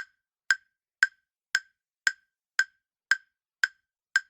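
Countdown timer sound effect: sharp, wood-block-like ticks, evenly spaced at about two a second.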